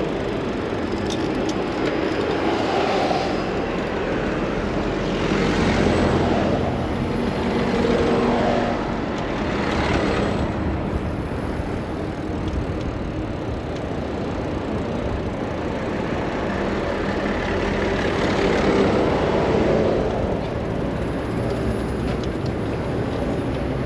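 Busy city road traffic heard from a moving bicycle: a steady rumble of engines and tyres, with several vehicles swelling louder as they pass.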